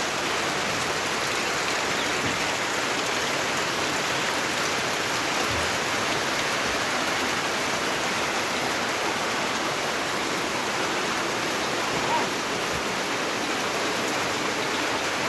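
Steady monsoon rain falling, a constant even hiss with no let-up.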